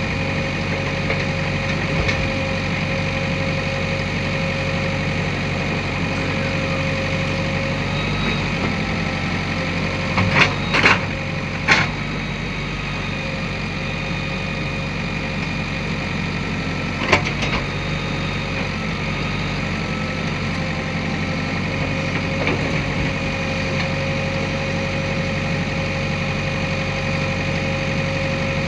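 JCB 3DX backhoe loader's diesel engine running steadily, with three sharp knocks close together partway through and one more a few seconds later.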